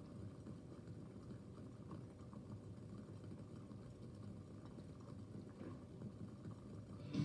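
Water boiling in an Erlenmeyer flask: a faint, steady low bubbling rumble with small scattered pops. Guitar music comes in right at the end.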